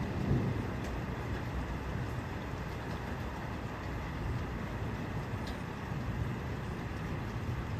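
Steady outdoor noise of rain and wind on the microphone: a low rumble under a hiss, with a few faint ticks.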